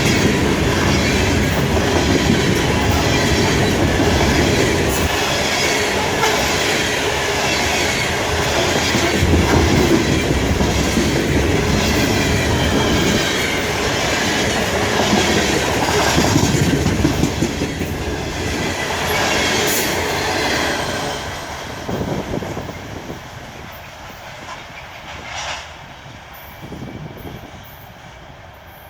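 CSX coal train's cars rolling past, wheels clattering in a regular rhythm about once a second. Over the last ten seconds or so the sound dies away as the train moves off.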